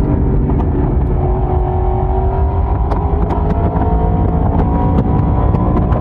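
Yamaha YZF-R1's crossplane inline-four engine and exhaust under steady throttle while riding, the pitch climbing slowly as revs build over a few seconds, with a heavy low rumble. It is heard from a microphone in the rider's pocket, with faint clicks over it.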